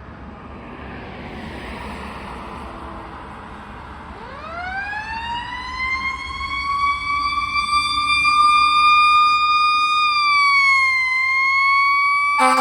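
Fire engine siren winding up about four seconds in, rising quickly in pitch and then holding a steady high wail, over the rumble of the truck. Right at the end a loud, deep horn blast cuts in.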